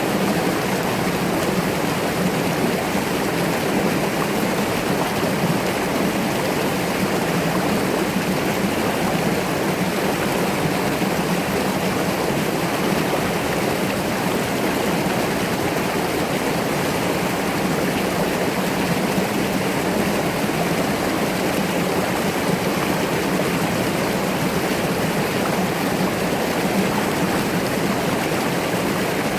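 Mountain stream rushing and burbling over rocks, a steady, even flow of water.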